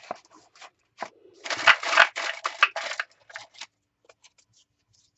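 Paper being handled, rustling and crinkling in a quick run of strokes for about two seconds, then a few faint ticks.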